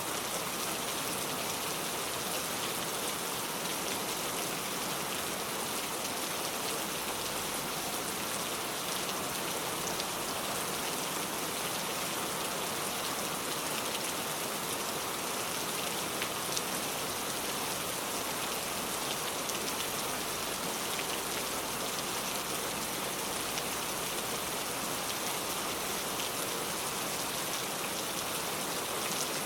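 Steady rain falling on a car, an even patter with scattered sharper drop ticks.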